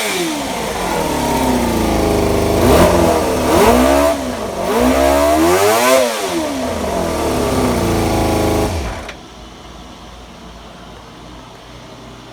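Suzuki Bandit 250's inline-four engine, breathing through an aftermarket titanium/carbon full exhaust, revved at standstill in several quick throttle blips that rise and fall. It is switched off about nine seconds in, leaving a faint steady hum. The seller says the carburettors need adjusting: lean at low revs and running rich at high revs.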